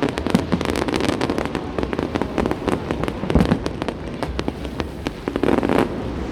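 Fireworks display: a dense, continuous crackle of many small bursts, with heavier booms mixed in.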